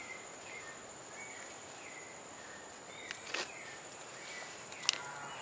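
Outdoor ambience: a steady high-pitched insect drone, with short bird chirps repeating every second or so and a couple of sharp clicks.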